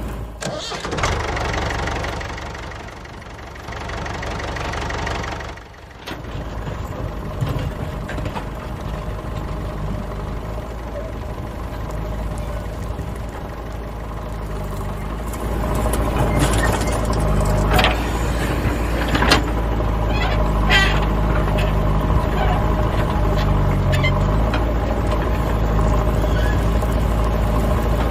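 A vehicle engine running steadily, dipping in level about five seconds in, then louder with scattered sharp knocks and clanks in the second half.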